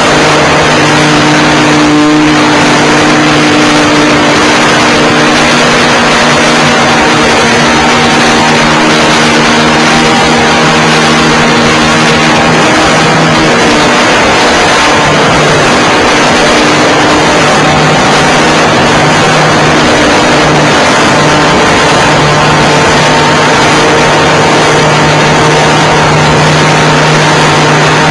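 Nitro glow engine of a Seagull Harrier 3D .91 RC plane running steadily in flight. It is heard loud and close through the onboard camera, over a constant hiss, with its pitch wavering only slightly.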